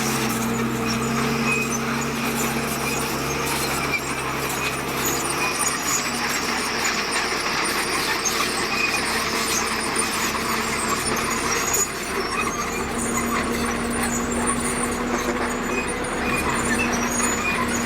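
Heavy earthmoving machinery at work: large diesel engines running steadily over a rumble of machine noise, with short high-pitched squeaks now and then.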